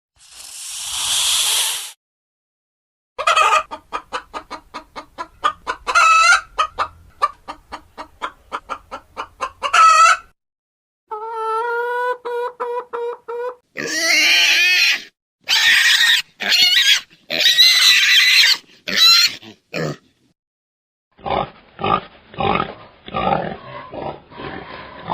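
A run of farm-animal calls: fast repeated clucking, then a few seconds of a steady pitched call, then loud harsh squeals, and near the end quick short grunts like a pig's. A brief whooshing swell comes right at the start.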